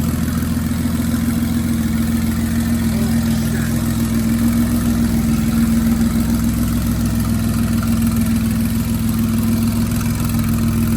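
Twin-turbo Nissan 350Z's V6 engine idling steadily with a low, even drone.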